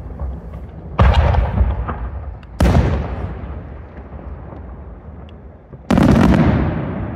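Aerial firework shells bursting: three loud bangs, about a second in, a second and a half later and about three seconds after that, each trailing off in a long rumbling echo, with a few faint crackles between them.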